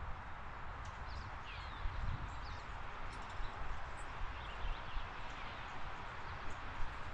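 Birds chirping in short, scattered notes, some sliding in pitch, over a steady background hiss and a low rumble.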